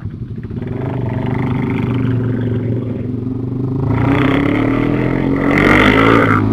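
Motorcycle engine accelerating, its pitch rising steadily over several seconds, with a rushing noise growing louder in the second half.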